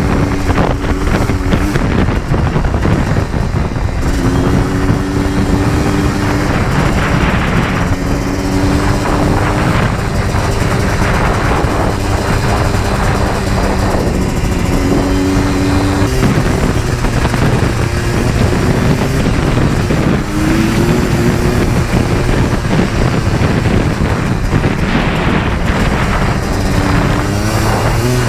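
Yamaha Blaster 200's two-stroke single-cylinder engine running under way. Its note holds steady in stretches, then drops and climbs again several times as it is throttled and shifted. Heavy wind noise on the microphone.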